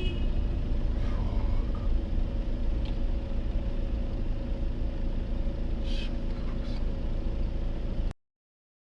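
Steady low rumble of a vehicle driving, engine and road noise, that cuts off suddenly about eight seconds in.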